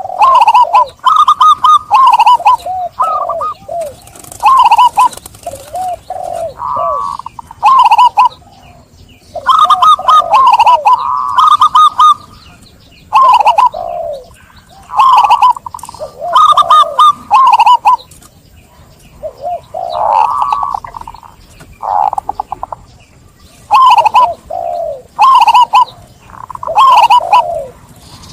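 Zebra dove (perkutut) cooing: runs of short, clipped coo notes repeated in phrases every second or two, with brief pauses between groups.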